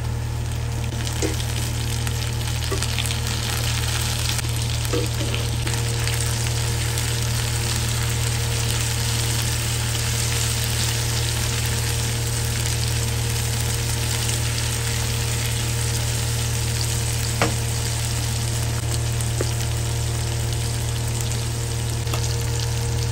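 Sliced onions and chopped tomatoes sizzling steadily in hot oil in a nonstick pan, with a wooden spatula stirring now and then. A steady low hum runs underneath, and a single sharp click comes about seventeen seconds in.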